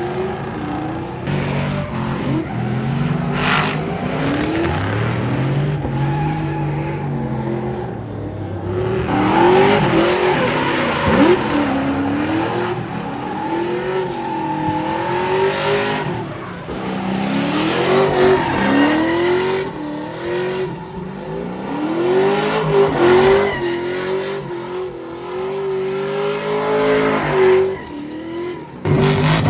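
Truck engine revving up and down over and over during a burnout, with tires squealing against the pavement.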